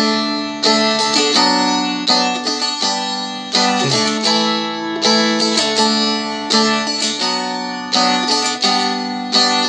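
Seagull Merlin fretted dulcimer strummed in a steady rhythm, playing the verse chord pattern D, B minor, G, A and changing chord every couple of seconds.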